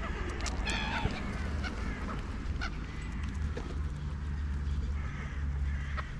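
Bird calls: one harsh, pitched call just under a second in, then a few shorter calls later, over a steady low rumble.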